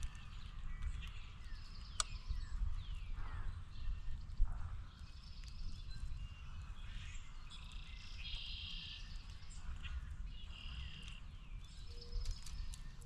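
Wild birds chirping and calling, with a short rapid trill about eight seconds in, over a steady low rumble.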